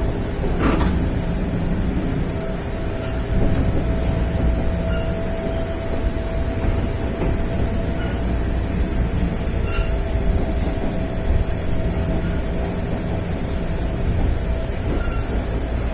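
Sangi Line electric train running along the track: a steady low rumble of wheels on rail, with a steady whine that firms up a few seconds in and holds.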